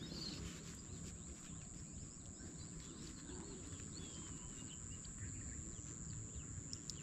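Faint outdoor ambience: a few thin bird chirps, mostly in the middle, over a steady high hiss and a low wind rumble.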